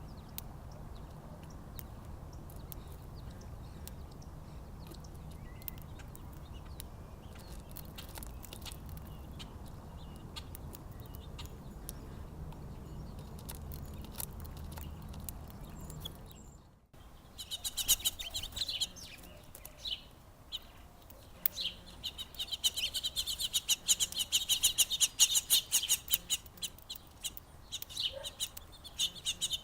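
Small songbirds at a backyard feeder chirping in a busy, rapid chatter, starting abruptly about halfway through and growing denser toward the end. Before that there is only a low steady rumble with faint scattered clicks.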